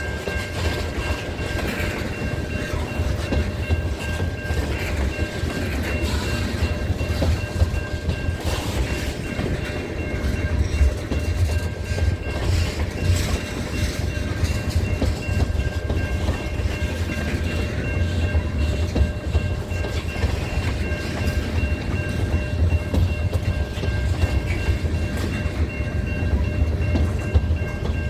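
Freight train tank cars rolling past on jointed track: a steady low rumble with irregular wheel clatter, and a thin, steady high-pitched ringing tone throughout.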